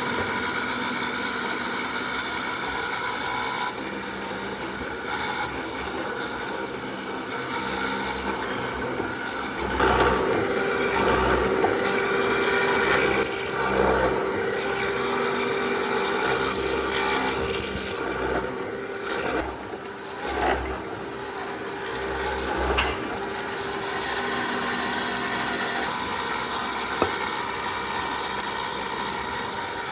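A power tool working wood: a steady motor whine over a rough grinding noise, with the sound dipping and swelling as the tool bites into the wood and eases off several times.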